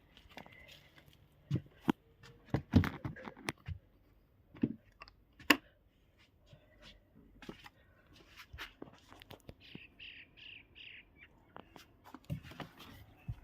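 Scattered short knocks and clicks, with a quick run of four or five bird chirps about ten seconds in.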